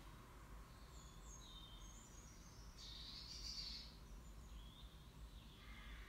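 Faint birdsong in near silence: a few short, high chirps and warbles, the loudest about three seconds in.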